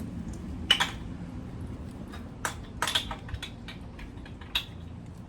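Sharp metal clicks and clinks of a socket and socket tools being handled and fitted, five or six separate knocks spread out over a low steady rumble.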